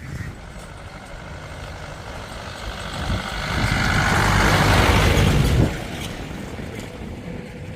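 A motor vehicle, likely the truck, running close by. Its noise builds over a few seconds and is loudest a little past the middle, then drops off suddenly.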